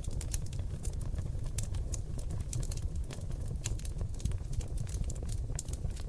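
Oak log fire burning in a fireplace: dense, irregular crackling and sharp pops, several a second, over a low steady rumble.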